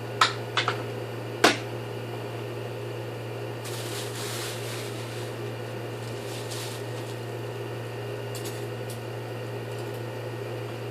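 A steady low mechanical hum with three sharp knocks or clicks in the first second and a half, then brief rustling hiss about four seconds in and again a little later.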